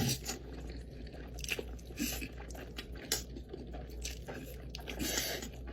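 Close-miked eating: a big bite of spicy Buldak noodles being chewed, with several short, sharp wet mouth clicks scattered through the chewing.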